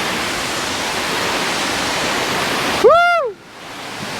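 Steady rushing water of a waterfall. About three seconds in, one short high call that rises and then falls in pitch cuts across it.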